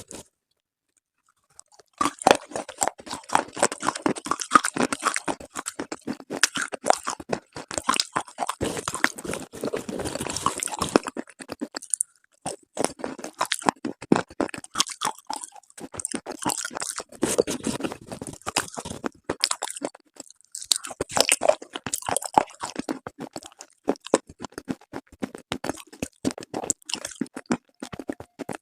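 Close-miked biting and chewing of slate pieces with paste: dense runs of crisp crunches and crackles, broken by short pauses between bites.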